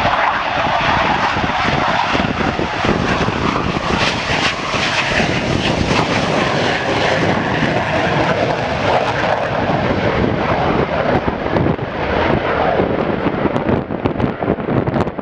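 Hawker Hunter jet's Rolls-Royce Avon turbojet roaring loudly and steadily as the aircraft flies its display, the hiss of its upper range thinning out over the last few seconds as it draws away.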